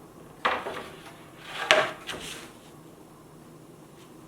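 Machined steel miter bar being set into a table saw's miter slot. There is a sudden scrape about half a second in, then a short sliding rub that ends in a sharp metal click.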